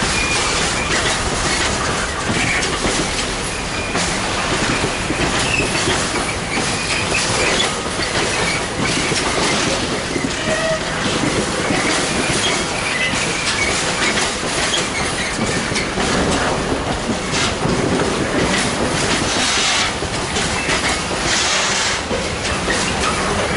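A train rolling past steadily, its wheels clattering over the rail joints, with a few brief wheel squeals.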